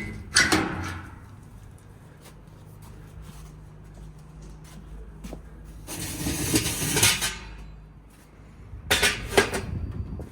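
Handling sounds at a charcoal grill: a sharp knock at the start, a rustling, hissing burst about six seconds in that lasts over a second, and two sharp knocks near the end.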